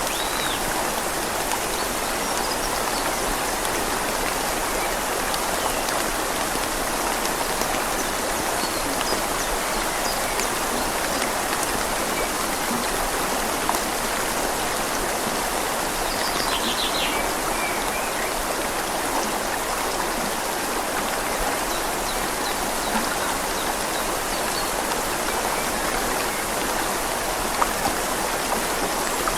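Steady rain falling on leaves together with the flow of a river, an even hiss with a few faint bird chirps.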